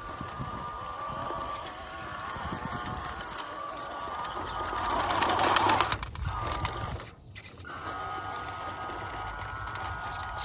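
1:16-scale RC crawler's 370 brushed motor and single-speed metal gearbox whining steadily, rising and getting louder about five seconds in before cutting off. After a short stop about seven seconds in it whines steadily again.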